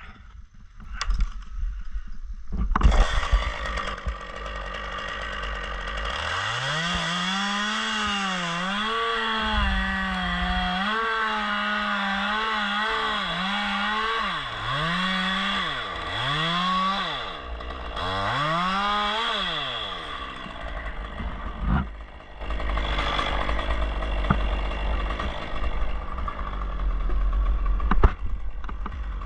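Gasoline chainsaw run at high revs, its engine pitch wavering and dipping several times as the throttle is eased off and opened again, then dropping away. A steady rushing noise lies under it and carries on afterwards.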